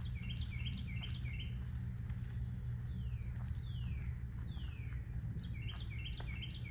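A songbird singing. It gives quick runs of short notes that each hook upward, then three long whistles that slide down in pitch, then another run of short notes, all over a steady low rumble.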